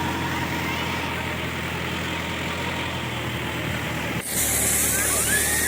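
Tractor's diesel engine running steadily, driving a PTO water pump. About four seconds in, the sound breaks briefly and a louder high hiss joins the engine hum.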